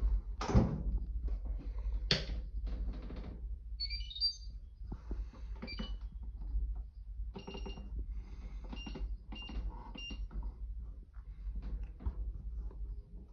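Fisher & Paykel IW812 top-loading washing machine's control panel beeping as a wash is set up: some knocks and clicks, a short run of beeps at different pitches about four seconds in, then single button-press beeps several times between about seven and ten seconds in.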